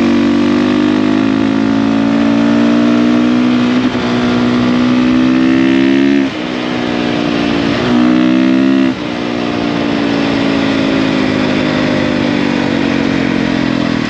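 450 dirt bike's single-cylinder four-stroke engine running under way, its pitch climbing slowly. The throttle is chopped about six seconds in, opened again briefly, and closed again about nine seconds in. After that it runs steadily with the pitch sagging a little.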